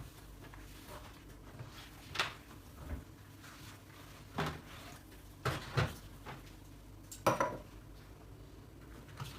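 Dishes and cutlery being handled in a kitchen, clinking against each other in about six separate clatters, the loudest a little past the middle.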